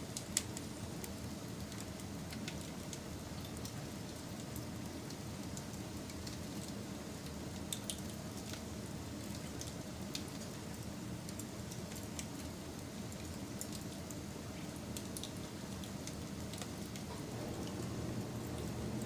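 Wood fire burning: a steady low rumble of flames with scattered sharp crackles and pops, a few louder pops standing out.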